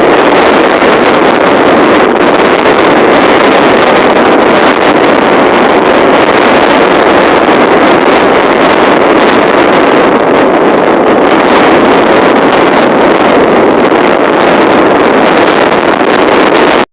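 Strong wind blowing steadily and loudly across the microphone, a dense unbroken rush of noise.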